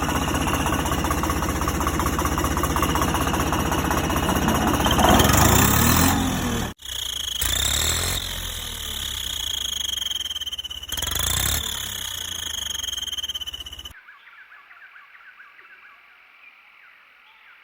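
Toy vehicle engine sound: a fast, rattling engine-like pulse with a high whine over it. It cuts out for an instant about seven seconds in and drops to a faint hum for the last few seconds.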